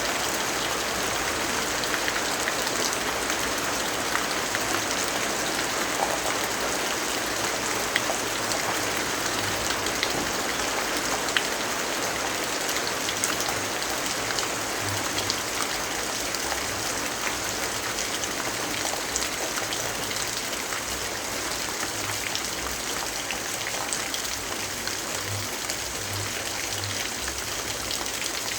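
Steady rainfall: an even hiss with scattered small drop taps.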